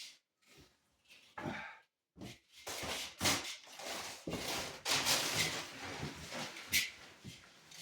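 Rustling and scraping of material being handled and pulled apart, with a few sharp knocks, dense from about two seconds in.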